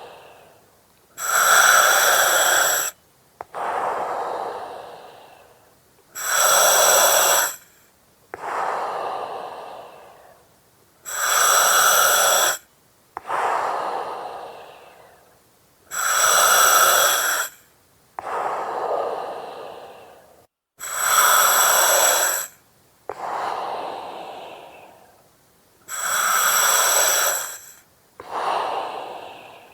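Breathing through an oxygen mask, in a slow, even rhythm of about one breath every five seconds. Each cycle is a loud, steady hiss of under two seconds that starts and stops sharply, followed by a softer breath that fades away.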